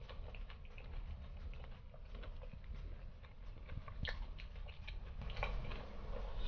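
Close-up mouth sounds of someone chewing sauce-coated crispy fried chicken: soft, irregular wet clicks and crackles, with a few sharper ones about four seconds in.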